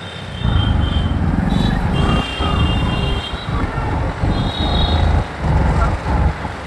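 Road and traffic noise heard from a moving motorbike, with heavy uneven wind buffeting on the microphone. A few short high-pitched beeps from traffic come through about one and a half seconds in and again past the middle.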